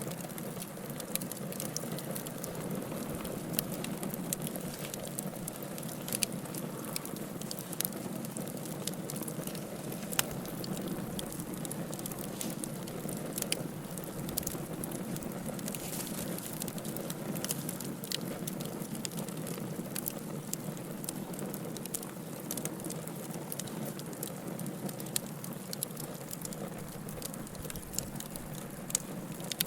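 Fire burning in a fireplace: a steady low rush of flame with frequent irregular crackles and sharp pops, one louder pop about ten seconds in.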